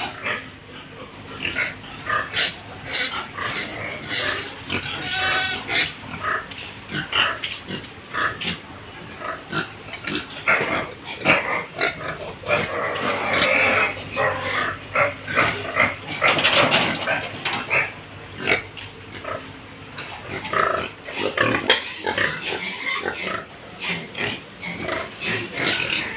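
Pigs grunting and calling in short, irregular, overlapping bursts, with a few louder calls about halfway through.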